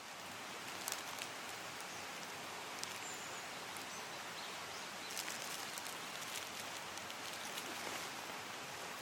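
Steady rush of a small mountain stream, with scattered sharp clicks and one brief high chirp about three seconds in.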